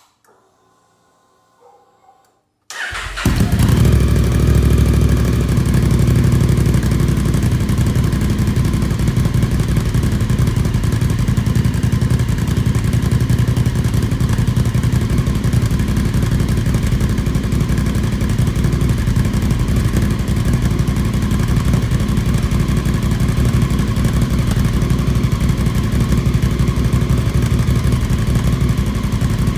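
Honda CRF1000L Africa Twin's parallel-twin engine breathing through a Blackwidow full exhaust system, starting up nearly three seconds in and then running steadily at an even, loud level.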